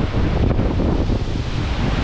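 Storm sea with heavy waves washing and breaking against a ship, under strong wind buffeting the microphone. The noise is loud and steady, heaviest in the low rumble.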